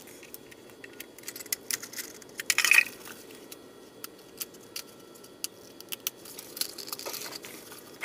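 Scattered clicks and small knocks of plastic and metal fuel pump module parts being handled and pushed together, with a louder clatter about two and a half seconds in.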